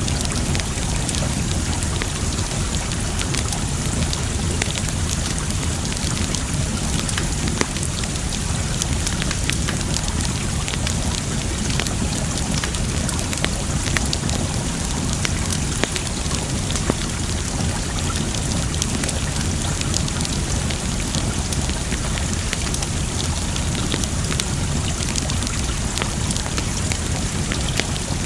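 Campfire crackling, with frequent sharp pops and snaps scattered throughout, over the steady rush of flowing water.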